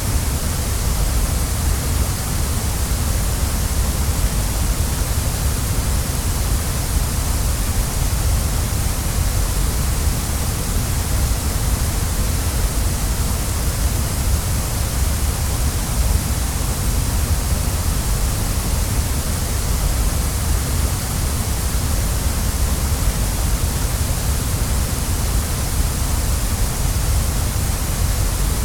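Waterfall: a steady, unbroken rush of falling water, a deep rumble with a hiss on top.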